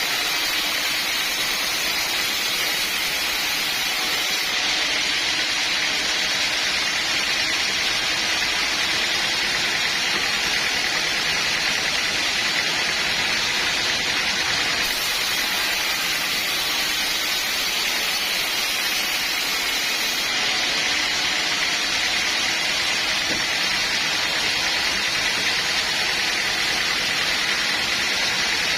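Sawmill machinery running steadily, a constant high rushing noise without breaks or knocks.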